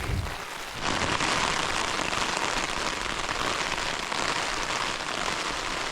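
Heavy rain pelting down on a tarp overhead, a dense steady hiss that swells about a second in and then holds.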